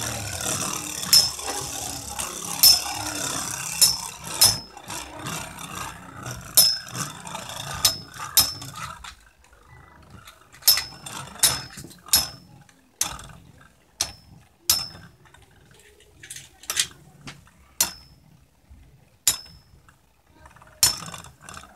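Two Beyblade tops with metal fusion wheels, Rock Leone 145WB and Lightning L-Drago 100HF, spin in a stadium, whirring with sharp metallic clashes as they collide. About nine seconds in the whirring drops off, and after that the clashes are fainter and more scattered, about one or two a second.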